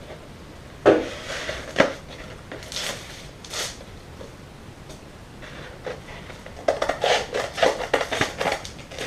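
Scissors cutting across a strip of gritty grip tape, a quick run of crisp snips starting about two-thirds of the way in. Before it, two sharp knocks and a few short rustles from handling the tape and scissors.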